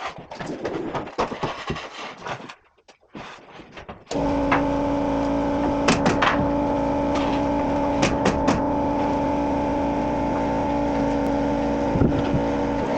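Scattered light knocks and clicks, then about four seconds in a steady machine hum with a constant pitch starts abruptly and runs evenly, with a few sharp clicks over it.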